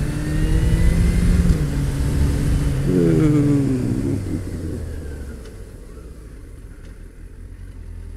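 Motorcycle engine running while riding, its pitch stepping between gears, with a brief rev about three seconds in. From about five seconds the engine note falls lower and quieter as the bike eases off.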